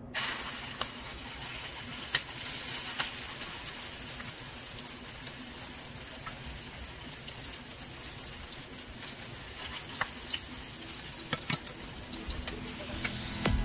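Egg-battered grilled eggplant frying in hot oil in a wok: a sizzle that starts suddenly as it goes into the oil and keeps on, with scattered sharp pops and crackles.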